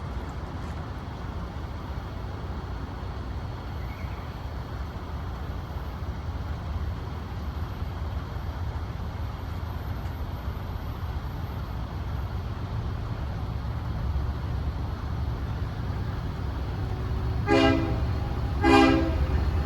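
Diesel freight locomotive approaching, its low rumble slowly building, then two short blasts of its air horn near the end.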